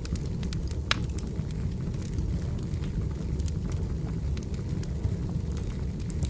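Wood fire crackling and popping over a steady low rumble, with scattered sharp snaps and one louder pop about a second in.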